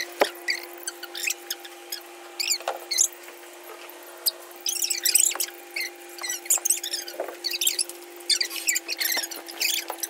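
Small birds, a fledgling taken for a young bulbul and an adult of its kind, chirping to each other in quick runs of high, squeaky calls. A steady low hum runs underneath.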